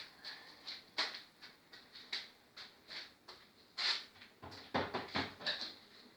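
Wood fire crackling in the firebox of a stove-fireplace: irregular sharp pops and snaps, with a quick flurry of louder crackles about three quarters of the way through.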